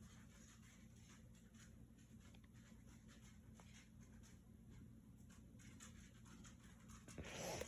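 Near silence: room tone with a low hum and faint rustling, and a soft breathy sound near the end.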